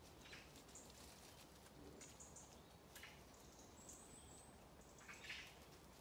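Faint, high woodland bird calls: a few short scolding notes and a thin, wavering high note about four seconds in. Scattered short scratchy noises mix in, the loudest a little after five seconds in.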